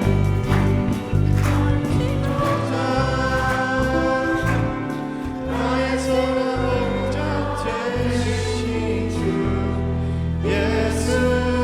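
Church praise team singing a contemporary worship song, with a band playing steady low bass notes underneath.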